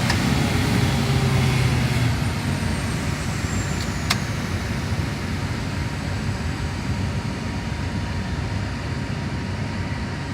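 Steady mechanical noise, with a low hum that stops about two seconds in and a single sharp click about four seconds in.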